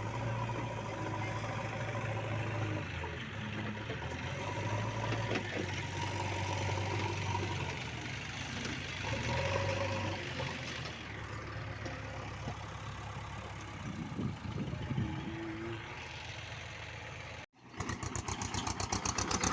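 A heavy vehicle's engine running steadily at idle. Near the end the sound cuts off abruptly, and a faster, evenly pulsing engine beat starts.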